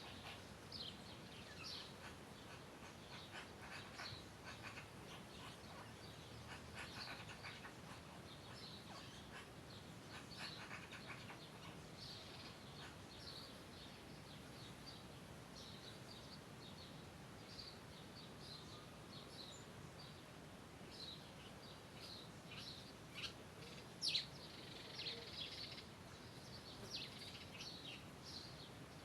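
Faint chorus of small songbirds chirping, many short high calls overlapping without pause, with one louder chirp late on.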